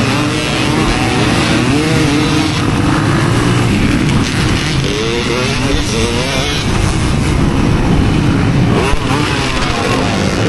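Dirt bike engine being ridden hard, its pitch repeatedly rising and falling as the throttle is worked, over a dense rumble of noise.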